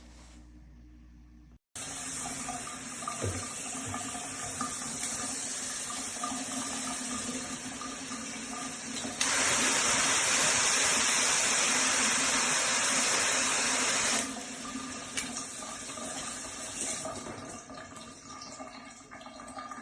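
Shower head spraying water: a steady hiss that starts abruptly about two seconds in and gets louder for about five seconds in the middle before easing back.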